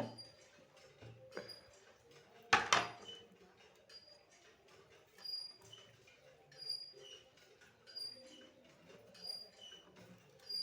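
Hard items clattering together, the loudest clatter about two and a half seconds in, with a few lighter clicks before it. A faint high chirp repeats about every second and a half.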